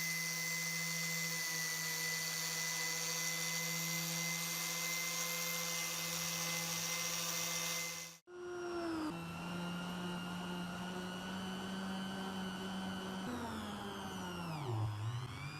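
Small electric power tool motor running at a steady whine. About 8 s in there is an abrupt cut, and the motor runs on. Near the end its pitch sags sharply as it slows under load, then climbs back up.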